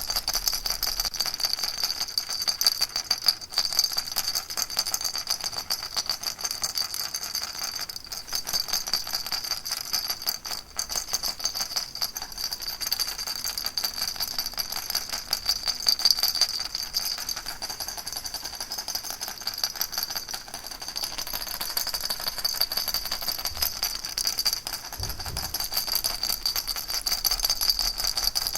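Baby rattle shaken steadily without pause: a dense, fast, bright rattling that keeps an even level, played as a sleep sound for babies.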